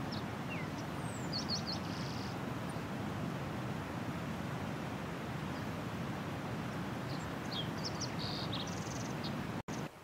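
Faint, high, thin bird chirps in two short clusters, about a second in and again near the end, over a steady low rushing background noise. The sound drops out briefly just before the end.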